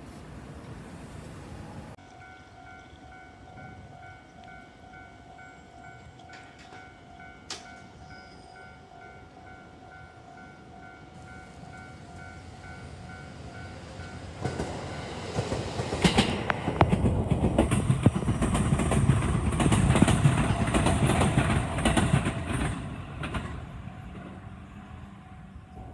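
Japanese level-crossing warning bell ringing with a steady pulsing electronic tone, then a train passes over the crossing from about halfway through, its wheels clattering over the rail joints, loudest for several seconds before fading near the end.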